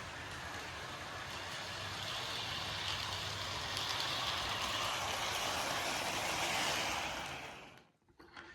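Lionel C&O 0-6-0T model locomotive and its freight cars running on the track: a steady rolling and motor rush that grows louder a few seconds in, then dies away near the end.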